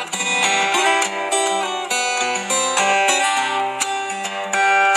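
Fingerstyle guitar playing a melody over stepping bass notes, with one player carrying tune and bass together.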